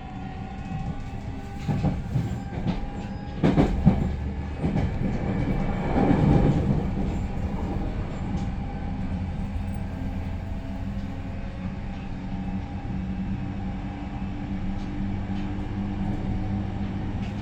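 Cabin running noise of a JR Central 315 series electric train: a steady low hum with several sharp knocks from the wheels over the track about two to four seconds in, and a brief louder rush around six seconds.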